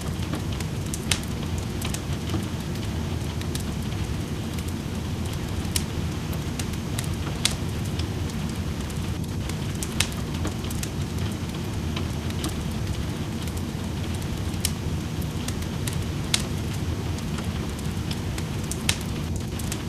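Steady rain with a wood fire crackling: a constant low rush of rain and irregular sharp pops and snaps from the burning logs, about one every second or two.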